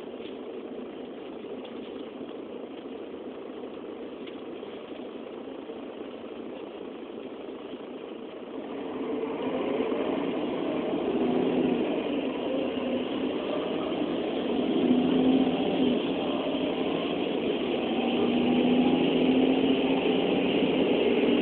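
Vehicle engines running in traffic: a steady hum that grows louder about eight seconds in, with engine notes wavering up and down.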